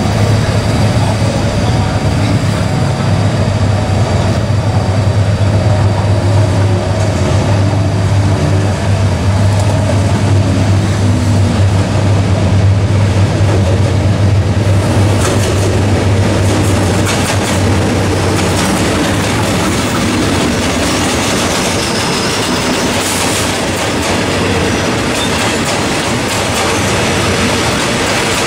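Diesel locomotive of a passenger train approaching slowly, its engine running with a steady low drone. About halfway through the drone eases and wheel-on-rail clatter and squeal come up.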